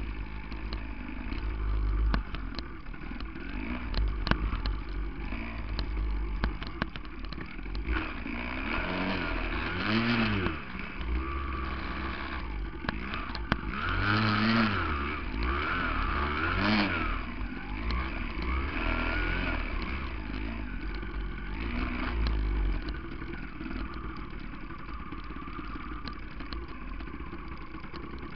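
A 1982 Yamaha 175 single-cylinder two-stroke dirt bike engine running, revved up and dropped back three times around the middle.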